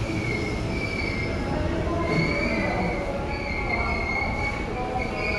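Seibu 2000 series electric train running, heard from inside the car: a steady rumble of wheels on rail, with a high squeal that wavers and breaks off and on.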